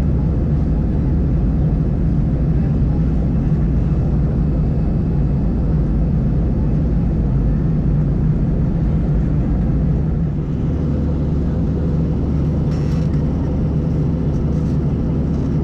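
Steady cabin noise of an Airbus A320 heard from a passenger seat: the constant drone of the engines and airflow, with a deep rumble that eases slightly about ten seconds in.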